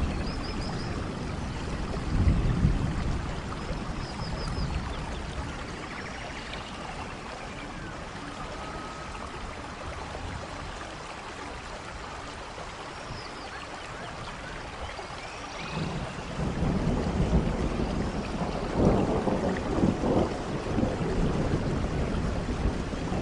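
Steady rain with low rumbles of distant thunder, a brief swell about two seconds in and a longer, louder rumbling from about two-thirds of the way through.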